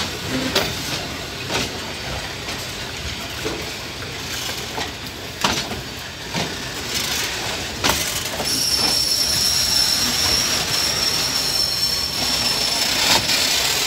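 Vietnam Railways freight train of covered boxcars rolling past, with wheels rumbling and knocking now and then over the rail joints. About eight seconds in, a steady high-pitched metallic squeal from the running gear sets in and carries on.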